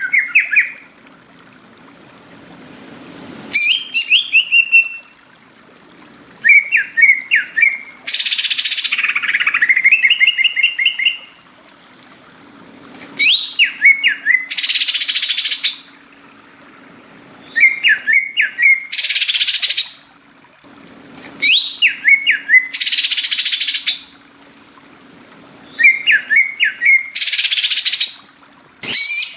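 Green leafbird (cucak ijo) singing hard: short phrases of quick, sharp chirping notes, each followed by a loud hissy burst, repeating every four to five seconds.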